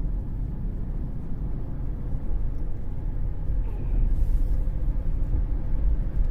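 Steady low rumble of road and drivetrain noise inside the cabin of a moving 2013 Cadillac CTS, getting a little louder about four seconds in.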